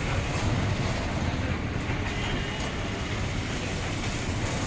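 Steady rumble of a moving bus's engine and road noise, heard from inside the driver's cabin.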